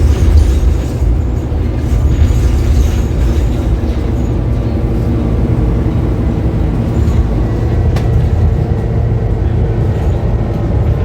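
Scania K280UB bus's five-cylinder diesel engine and drivetrain running steadily while the bus is under way: a deep, even rumble with a faint whine above it and a single click about eight seconds in.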